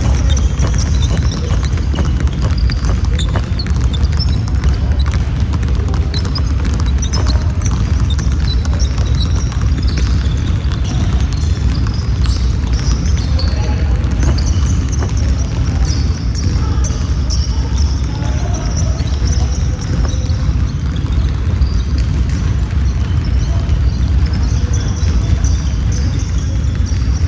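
Basketball game sounds: the ball bouncing on the court and players' voices calling out, over a steady low rumble.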